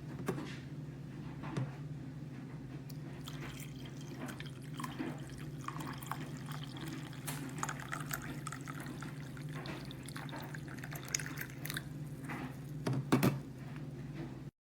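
Water trickling and dripping, with scattered small clinks over a steady low hum, and a louder double knock near the end.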